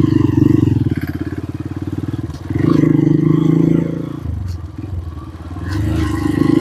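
Motorcycle engine running while riding a rough dirt footpath, the throttle opening and easing so the engine note swells and drops back twice.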